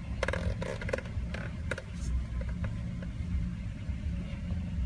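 Car engine idling steadily, heard from inside the cabin. There are a few faint clicks in the first two seconds.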